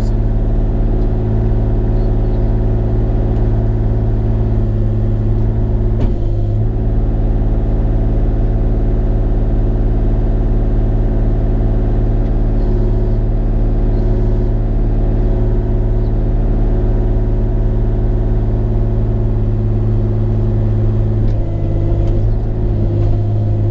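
Bobcat E35 mini excavator's diesel engine running steadily under working throttle while the machine moves, with a brief knock about six seconds in and a change in engine load near the end.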